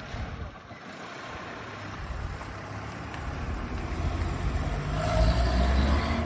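Datsun 510 Bluebird's L-series inline-four engine running and revving up, its pitch and loudness rising over the last two seconds or so.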